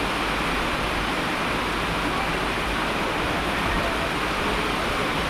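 Steady, even rush of falling water, unchanging throughout.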